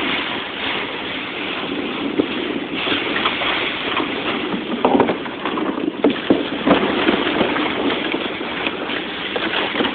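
A sled being towed over snow behind a pickup truck: a steady rushing, scraping hiss with a few knocks and bumps, and wind buffeting the microphone.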